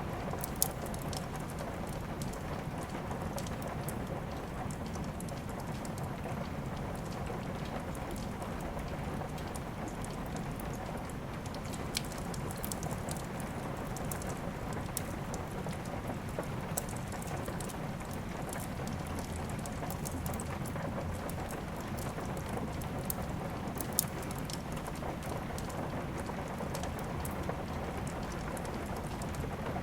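Steady rain falling, mixed with a wood fire crackling: fine ticks throughout and an occasional sharper pop.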